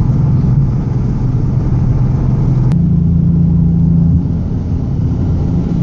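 Car engine running while driving, with road noise; the engine note steps up in pitch about three seconds in, at the same moment as a single sharp click.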